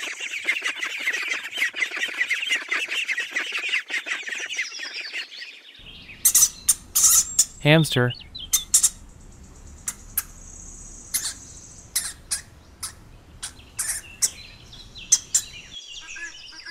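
Ducklings peeping in a dense, continuous chorus of short high calls, which stops abruptly about six seconds in. After that, a hamster clip: scattered sharp clicks with faint, thin high squeaks over a low background hiss.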